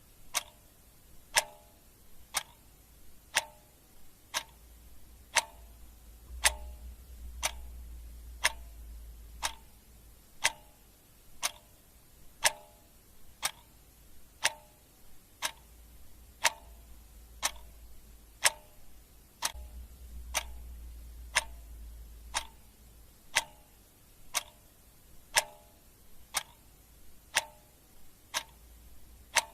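A clock ticking steadily, about one tick a second, with the ticks alternating tick and tock, over a faint low rumble.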